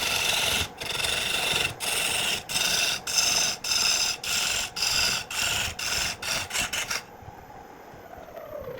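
A hand tool scraping wood in repeated strokes, about one every 0.7 s, quickening toward the end and stopping abruptly about seven seconds in. Near the end a faint whine falls in pitch.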